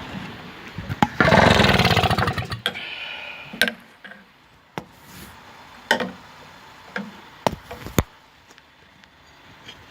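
British Seagull 102 4 hp two-stroke outboard being pull-started: a loud burst of rapid beats about a second in, lasting about a second and a half, as the engine turns over without catching. It is followed by several sharp knocks.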